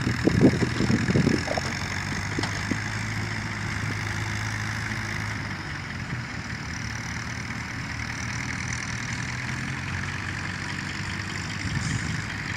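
Dump truck's diesel engine idling steadily, with a burst of loud clatter and knocks in the first second and a half.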